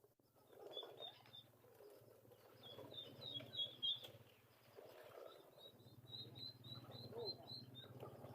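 Faint bird chirping: short high chirps repeated in three quick runs, over a faint low hum.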